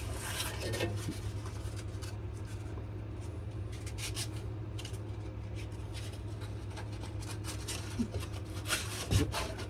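Sandpaper rubbed by hand over a wenge and maple knife handle: 400-grit cloth-backed paper scraping in irregular strokes, over a steady low hum.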